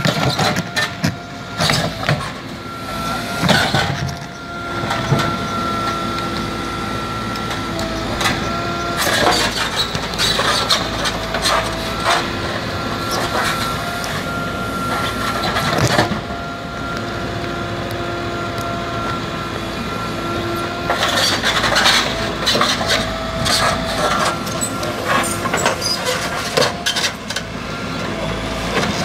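Backhoe loader at work: its diesel engine runs under load with a steady hydraulic whine, broken by bursts of metallic clanks and knocks from the working bucket and arm.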